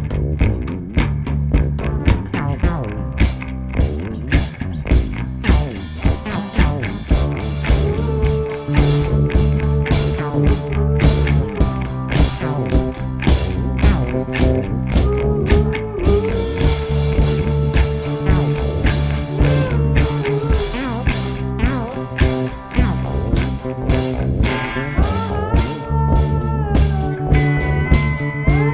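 A live band jamming in a psychedelic-rock, bluesy style: drum kit keeping a steady beat, a repeating bass line and electric guitar. A higher, bending guitar lead comes in near the end.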